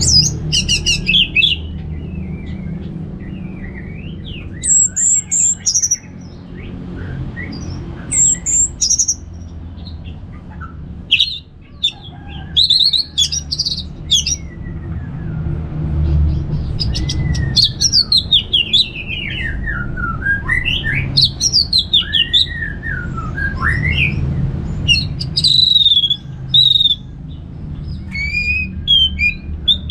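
Orange-headed thrush singing a long, varied song of whistled phrases, with notes that slide up and down and some very high, with short pauses between phrases. A steady low rumble runs underneath.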